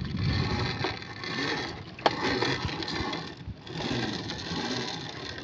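A small motor running steadily with a fast, even mechanical rattle, with one sharp knock about two seconds in.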